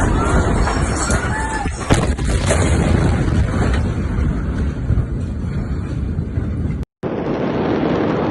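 Loud, dense low rumble with a sharp crack about two seconds in; the sound cuts out completely for an instant near the end, then the rumble resumes.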